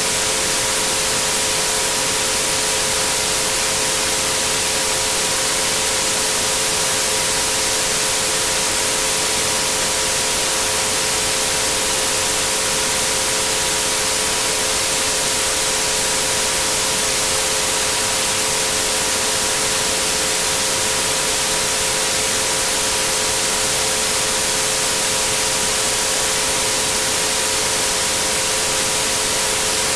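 Steady synthetic white-noise hiss with three pure tones at 432, 528 and 963 Hz held underneath it, unchanging throughout.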